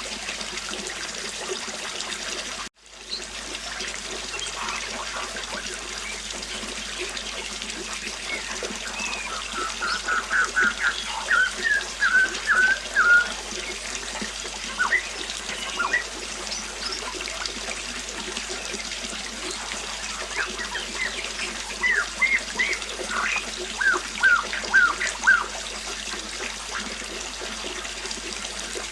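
River water flowing steadily, with a songbird singing short, quick chirps in two runs, one in the middle and one toward the end. The water sound cuts out for an instant a few seconds in.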